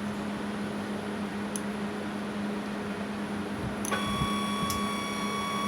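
Drive motor of a DIY CNC router axis holding with a steady low hum, then whining on one steady tone from about four seconds in as the axis jogs slowly toward its home switch.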